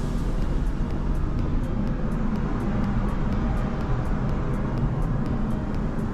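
Steady low engine rumble of a vehicle, with faint, rapid, regular ticking above it.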